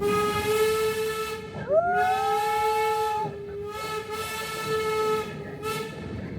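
Steam locomotive whistle blowing in several blasts, a steady note joined partway through by a second, higher note that slides up into place.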